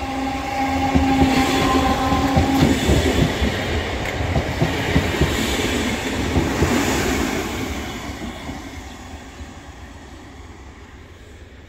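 Merseyrail Class 508 electric multiple unit passing close by, its wheels clacking over the rail joints. A steady humming tone runs for the first couple of seconds, and the train fades away over the last few seconds as it recedes.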